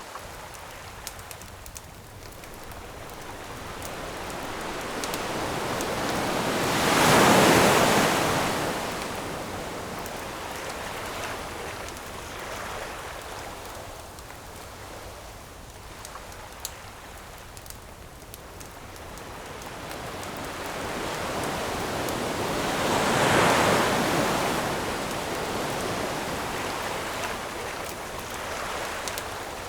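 Ocean waves on a shore: two large waves, about sixteen seconds apart, each builds up, breaks and washes out. Under them runs the quiet crackle of a campfire, as small scattered pops.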